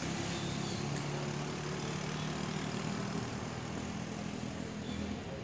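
A motor vehicle engine running steadily, a low hum over general street noise.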